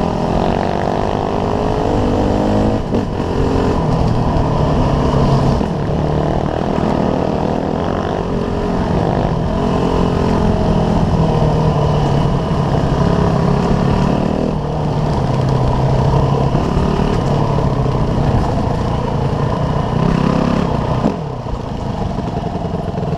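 Small off-road motorcycle engine running under load, its pitch rising and falling over and over as the throttle is opened and closed.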